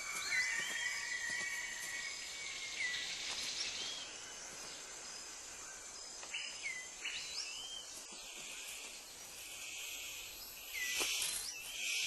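Rainforest ambience: a steady high buzz of insects, with short whistled bird calls that rise and fall scattered through. Near the end come a couple of louder hissing bursts.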